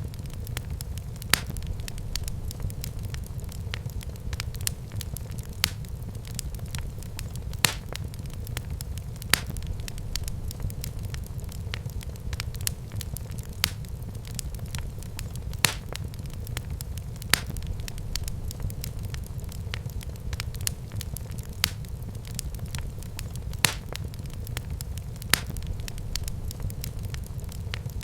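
Fire burning in a fireplace: a steady low rumble with sharp crackles and pops every second or two, a few of them louder than the rest.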